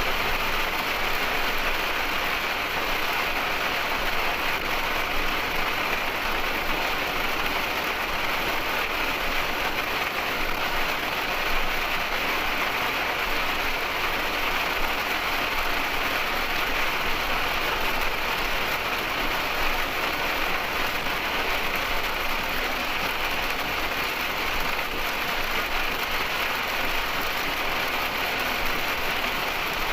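Heavy rain hitting the windshield and body of a moving motorhome, a steady hiss mixed with road noise, heard from inside the cab.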